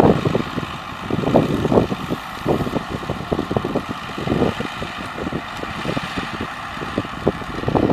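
Belarus MTZ 952.4 tractor's diesel engine running during spraying with a Kertitox sprayer, with a steady high whine over it and wind gusting on the microphone.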